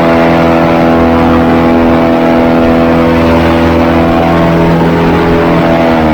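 Airboat engine and propeller running at steady, high throttle, loud and unchanging in pitch, beginning to ease off right at the end.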